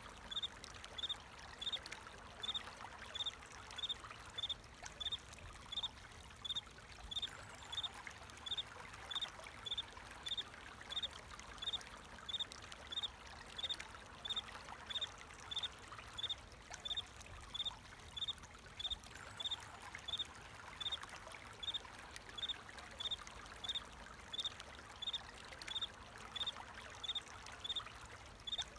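A cricket chirping at an even pace, about three short high chirps every two seconds, over the steady rush of flowing water.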